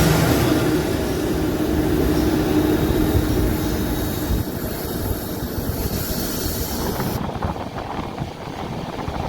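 A Rajdhani Express coach running on the rails, a steady rumble with a low hum in the first few seconds. Scattered clicks come in near the end.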